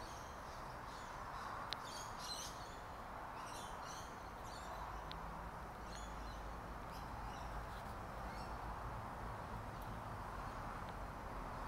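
Birds chirping in short high calls every second or so over a steady low rumble of background noise.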